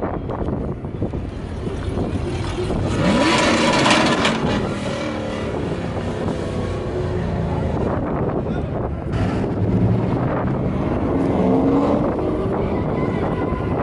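A vehicle engine revving, its pitch rising about three seconds in and again near the end.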